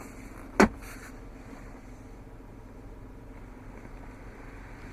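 A single sharp click about half a second in, the center console storage lid latching, over a steady low hum in the vehicle cabin.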